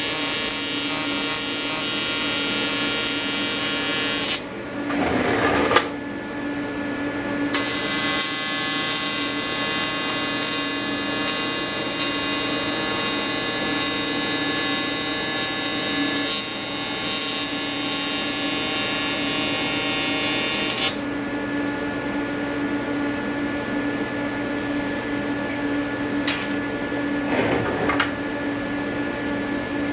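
AC TIG welding arc from an Everlast 325EXT on square wave at around 150 to 100 Hz, welding an aluminium intercooler: a steady, loud buzz. The sound thins and changes tone at about four seconds in, comes back full about seven seconds in, and changes again around twenty-one seconds in.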